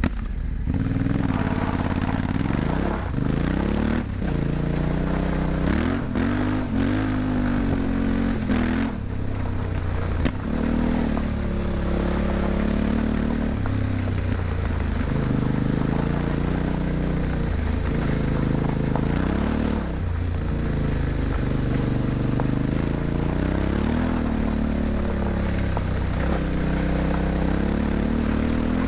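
Yamaha Ténéré 700's parallel-twin engine through an Akrapovič exhaust, ridden hard: it revs up and eases off again and again as the throttle is worked and the gears change. A few short knocks cut through now and then.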